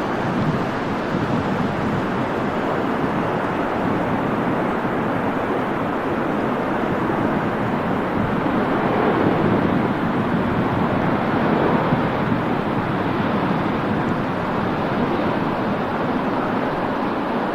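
Steady rushing noise of airflow and engines heard in a Boeing 737's cockpit during the final moments of a landing. It swells a little partway through.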